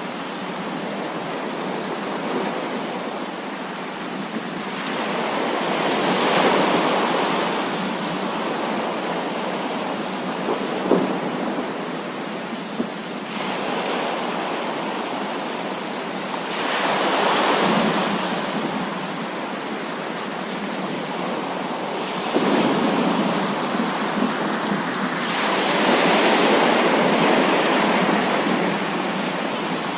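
Heavy rain falling steadily, with rolls of thunder swelling up and fading away three times: about five seconds in, midway, and a longer roll near the end. There are almost no deep rumbling lows.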